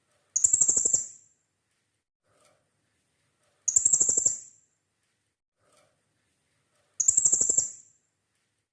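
Blue-crowned hanging parrot (serindit) calls: three shrill, rapidly pulsed bursts of about a second each, evenly repeated about every three seconds. It is a lure track played to set caged serindits calling.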